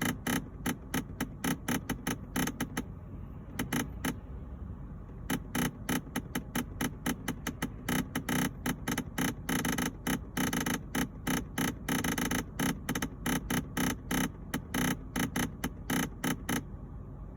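Abnormal rapid clicking from the air-conditioning system of a 2006 Toyota Harrier Hybrid, about four clicks a second. There is a short break around four seconds in, and the clicking stops shortly before the end. The noise happens whether the car is moving or standing still, and its cause is unknown to the owner.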